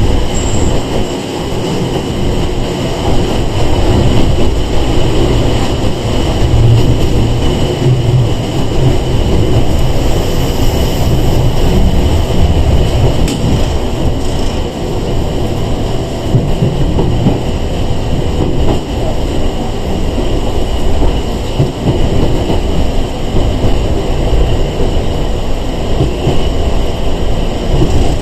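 Sangi Railway 101 series electric train (former Seibu 401 series) heard from inside the car while running: a loud, steady rumble of wheels and running gear, with a steady high tone above it.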